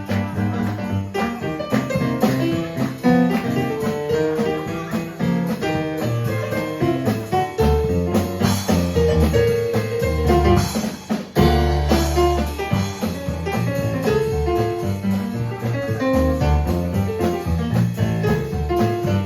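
A live band playing a song on keyboard and drum kit, with a steady beat under changing keyboard notes and chords.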